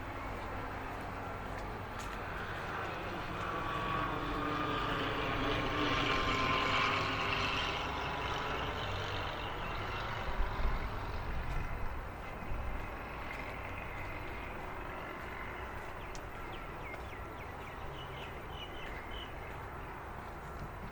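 An aircraft passing over, its engine noise swelling to a peak and fading away over several seconds, followed by a few short knocks.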